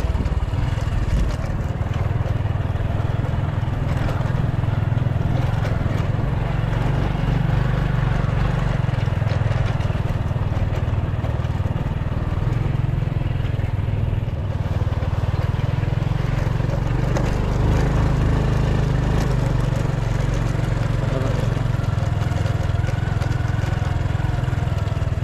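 Small motorbike engine running steadily at low speed while riding over a rough dirt track.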